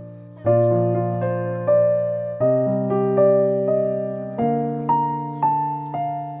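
Background piano music: slow sustained chords and melody notes, each struck and left to fade.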